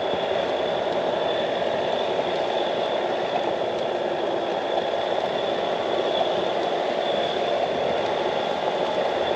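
A truck's engine and tyres straining in deep snow as it climbs a hill, a steady noise with a thin high whine over it.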